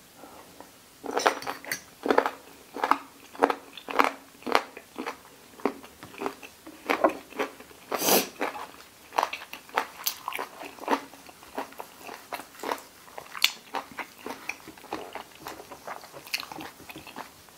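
Close-up chewing of pig's ear, its cartilage crunching in a steady run of crisp crunches, about two a second.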